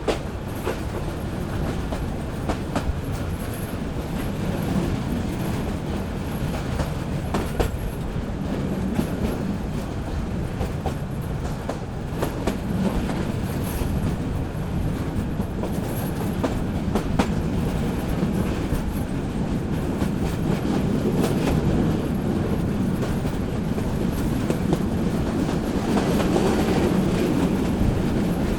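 Local passenger train running along the track: a steady rumble with wheels clicking over rail joints, growing somewhat louder toward the end.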